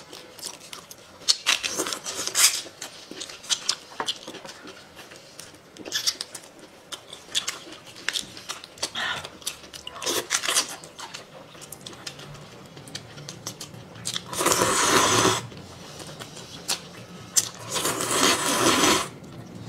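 Close-miked eating: biting, chewing and crunching, with scattered short crackles and two longer noisy stretches of about a second each near the end.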